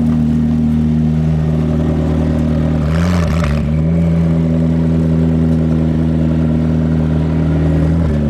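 A car engine running steadily at low speed, with a brief dip in pitch and a short hiss about three seconds in.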